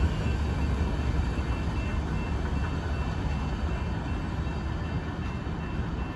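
Union Pacific coal train rolling past: a steady low rumble of the cars on the rails, slowly getting quieter.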